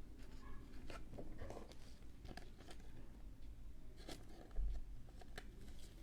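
Trading cards and packs being handled on a table: soft clicks, rustles and crackles of card stock and pack wrappers, with a louder dull bump about four and a half seconds in.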